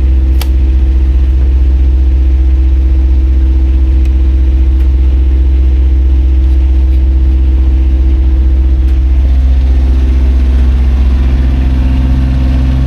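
Sailboat's inboard engine running steadily while motor-sailing, a loud low drone; its tone shifts a little about nine seconds in.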